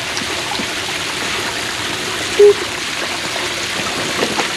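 Creek water running steadily over rocks. About halfway through, a brief, loud, single-pitched blip cuts in over it.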